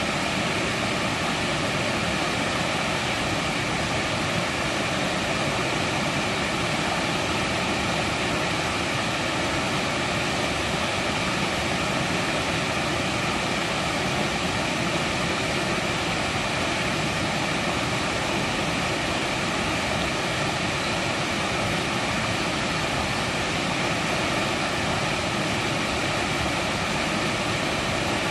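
Mountain valley stream rushing over rocks, a steady unbroken rush of water.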